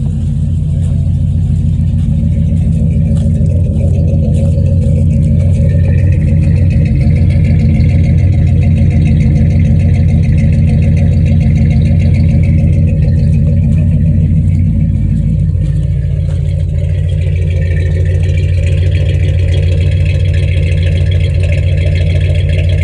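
A 1985 Chevrolet engine running steadily at a constant speed. Its tone shifts slightly about two-thirds of the way through.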